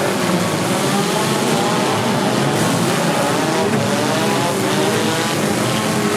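Many four-cylinder demolition derby cars running and revving at once, their engine notes overlapping and wavering up and down in pitch.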